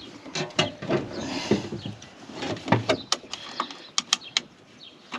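Metal clicks, taps and rattles of a Kenworth truck door's inside handle and latch linkage being handled, as a loose metal piece is worked back into the mechanism; a quick run of clicks comes about four seconds in.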